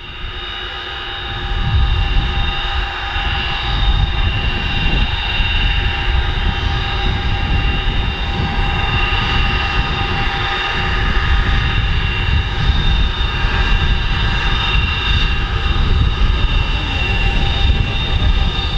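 Avro Vulcan's four Rolls-Royce Olympus turbojets running at high power: a loud, steady jet roar with a held high whine, building over the first two seconds.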